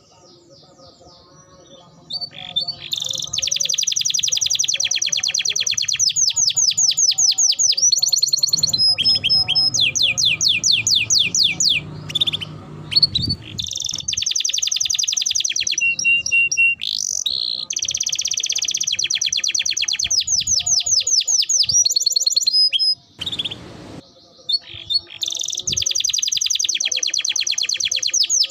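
Domestic canary singing vigorously: long runs of rapid trills and rolling repeated notes. It starts about two seconds in, with brief pauses and a short break near the end.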